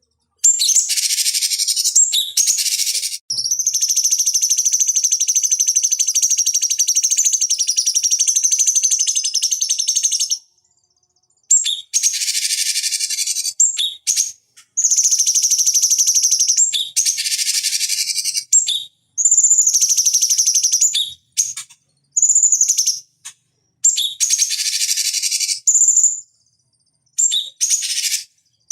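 Cucak cungkok singing: a long bout of fast, high chattering over a held high note, then a run of short bursts of the same song with brief pauses between them.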